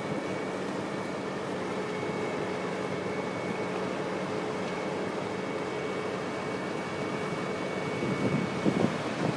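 Wirtgen cold milling machine running steadily at a road resurfacing job: a constant diesel drone with a steady high whine, turning to louder, irregular rough clattering about a second before the end.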